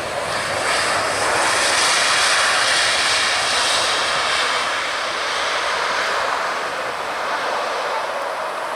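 Jet airliner's engines roaring past close by, with a high whine over the roar, growing loudest a couple of seconds in and then slowly fading.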